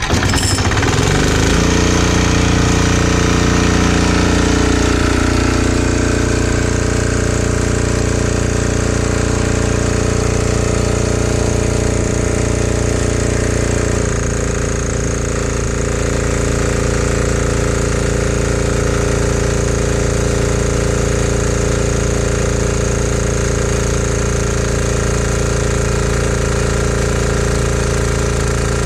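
Single-cylinder 196cc 168F diesel engine driving a generator, running on vegetable oil during a power test under electrical load. It comes in loud at the start, its pitch dipping as it settles in the first second or so, then runs steadily with a slight step in pitch about halfway through.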